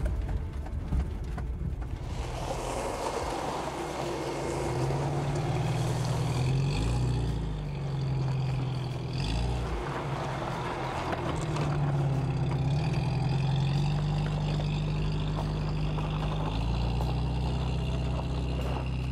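1994 Geo Tracker's four-cylinder engine running as it drives up a rough desert trail. The revs rise and fall several times, and the engine gets louder about two seconds in.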